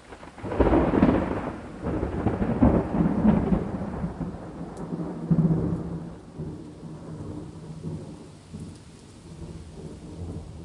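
Thunder over steady rain: a sudden crack about half a second in rolls into a long rumble that surges several times and slowly dies away, with the hiss of rain underneath.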